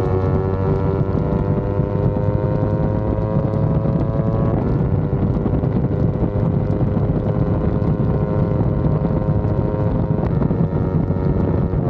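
Yamaha R25's 249 cc parallel-twin engine pulling under acceleration from the rider's seat, its pitch climbing slowly and then dropping at an upshift about four and a half seconds in, before running on steadily. Wind rushes over the microphone throughout.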